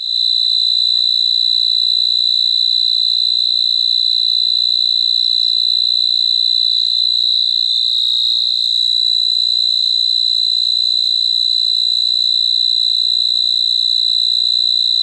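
Cricket chirping in one continuous high-pitched trill, steady and unbroken.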